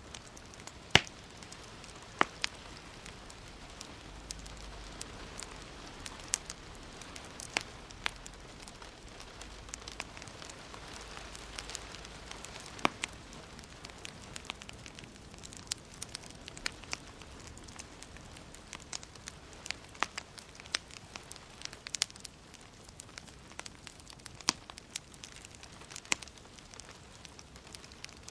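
Wood fire crackling in a fireplace: irregular sharp pops and snaps, a few a second, over a soft steady hiss of burning.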